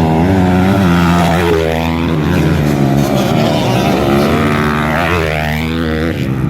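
Several motocross bikes' engines running hard, the pitch falling and rising twice as the bikes rev and pass.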